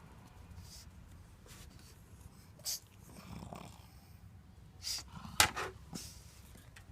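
Pug snorting and sniffing, a few short irregular snorts, the loudest and sharpest about five and a half seconds in.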